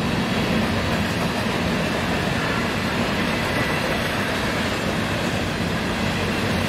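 Train rolling past on the track, a steady rumble of wheels on rails.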